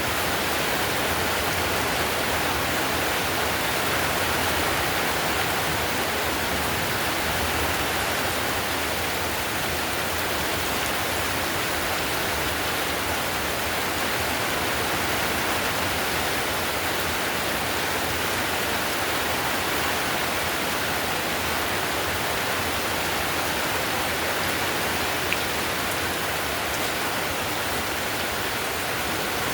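Heavy rain drumming steadily on clay roof tiles: a dense, even hiss of countless drops that does not change in strength.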